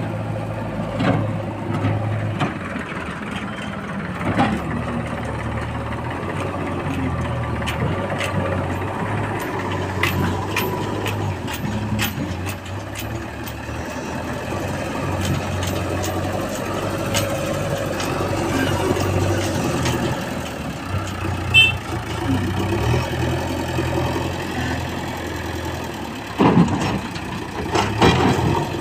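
Diesel engine of a JCB 3DX Extra backhoe loader running under working load, its engine speed rising and falling, with scattered knocks and clanks. The loudest knocks come near the end.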